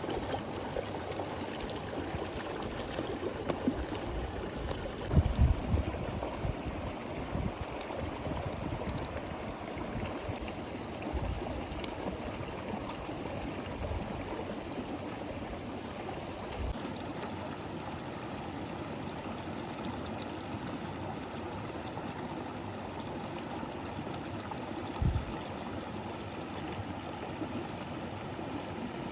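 A river flowing steadily, a constant rush of water, with a few low thumps about five seconds in and again near the end.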